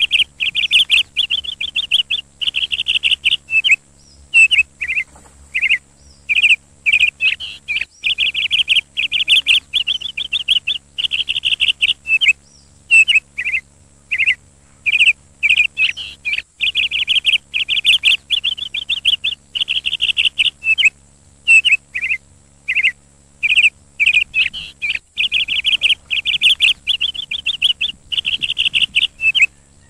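A bird chirping in loud, rapid trills and short calls, repeated over and over with brief pauses between runs.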